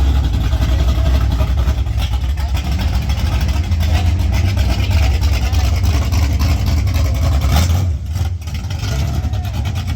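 A car engine running with a loud, deep rumble; the low rumble drops away about eight seconds in.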